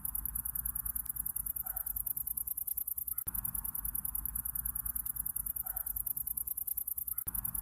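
Night insects, crickets or katydids, trilling in a fast, even, high-pitched pulse over a low steady hum. The ambience is a loop that restarts about every four seconds.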